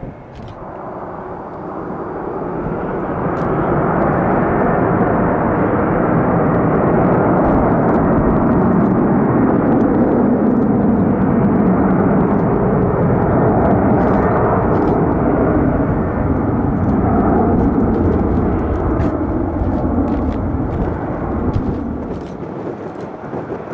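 Jet airliner engines passing: a rumble that builds over the first four seconds, stays loud, then fades near the end.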